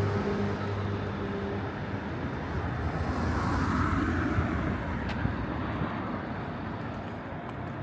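Street traffic: a steady vehicle engine hum fades out about two seconds in, then the noise of another vehicle swells and passes.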